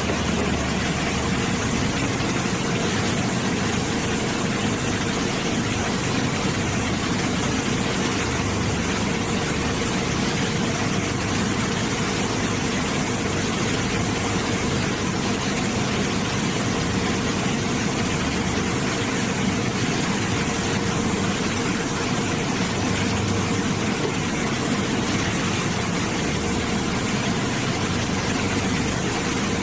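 Steady machinery noise: an even, unbroken hiss with a constant hum running under it.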